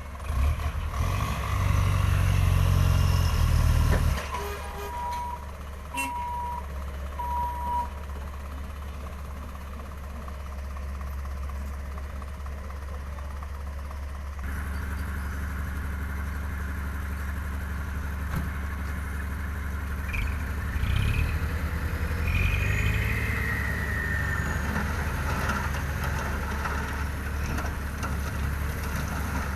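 Dump truck engine revving hard for the first few seconds, then three short reversing-alarm beeps. The engine runs on steadily after that, rising in pitch again about two-thirds of the way through.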